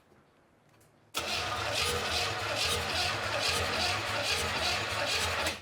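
Small-block Chevy 350 V8 cranking over on its starter for about four seconds with an even pulsing rhythm, then stopping abruptly. It does not catch, because the distributor is out of time.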